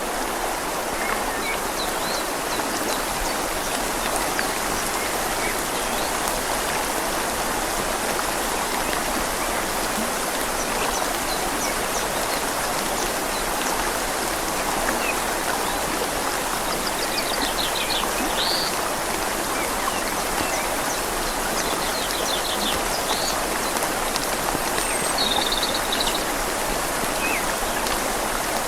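Steady rain falling on leaves, mixed with a river flowing, an even hiss without pauses. A few short, high bird chirps come in about two thirds of the way through and again near the end.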